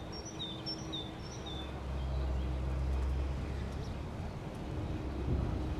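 A small bird chirping a quick series of short, high, falling notes in the first two seconds, over a steady low rumble of outdoor background noise that grows louder about two seconds in.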